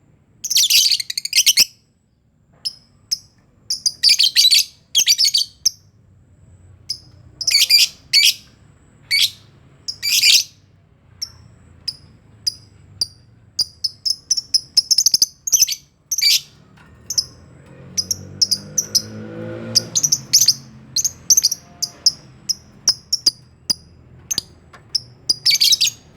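A colony of lovebirds chattering: shrill, harsh chirps and screeches in bursts, with runs of short rapid chirps in the second half.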